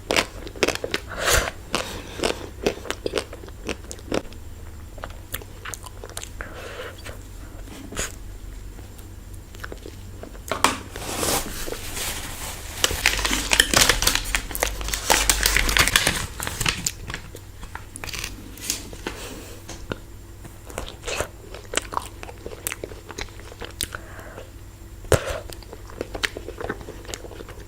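Close-miked eating of a chocolate-coated ice cream bar: repeated crunching bites and chewing. A louder, denser stretch of noise comes about halfway through.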